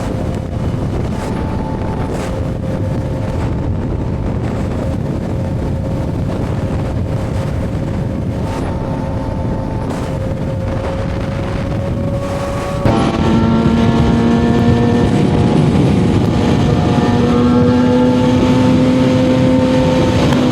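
Suzuki GSX-R750 inline-four engine running at a steady cruise under wind rush, its pitch creeping slowly upward. About two-thirds of the way through, the sound suddenly gets louder and deeper.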